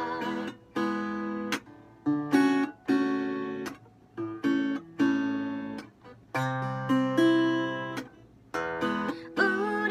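Acoustic guitar strumming chords, each chord struck and left to ring and fade, roughly one a second: an instrumental passage of a song.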